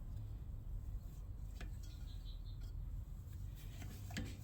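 A few faint clicks of small engine parts being handled over a low steady hum.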